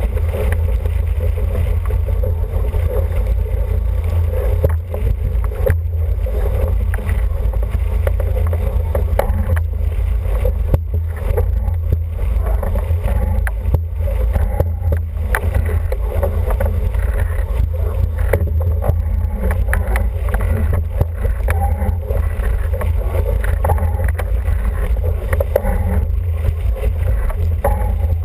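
Heavy steady wind buffeting on the microphone aboard a sailing International 14 dinghy, with water rushing past the hull and a few light knocks.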